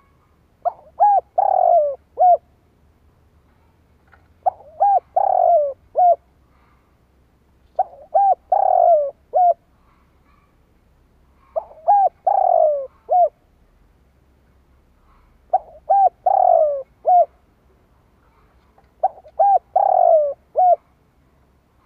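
Spotted dove cooing, a male's song repeated six times about every three and a half to four seconds. Each phrase is a few short coos, a longer falling coo, and a short final note.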